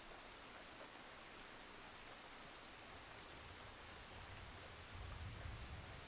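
Rain falling as a steady, faint hiss. About four seconds in, a low rumble of distant thunder swells up and then fades.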